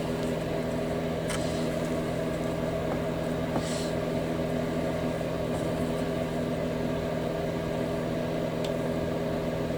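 Steady mechanical hum running throughout, with a few faint clicks and a brief soft hiss.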